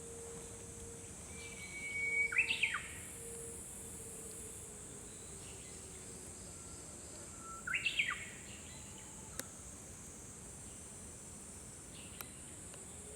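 Japanese bush warbler singing its 'hō-hokekyo' song twice, about five seconds apart: each song is a long held whistle that breaks into a quick flourish of notes.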